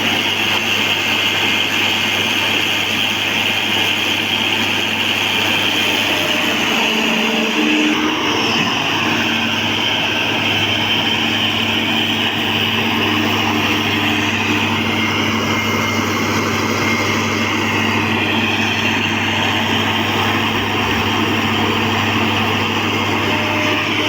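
Heavy diesel engine of a John Deere excavator running steadily at working revs, its note shifting a little about eight seconds in.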